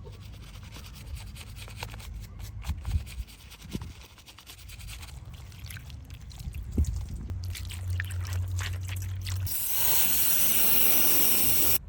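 Rubbing and small handling sounds of a miniature diecast car being cleaned, then near the end a loud steady hiss of water spray for about two seconds that cuts off suddenly.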